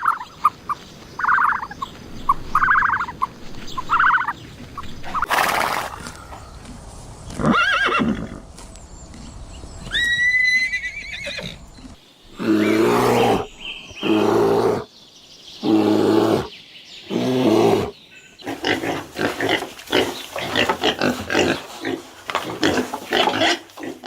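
Different animal calls one after another. First comes a short call repeated about every second and a half, then a high whistle that glides, then four loud, drawn-out calls in a row, then a fast chatter of short sounds.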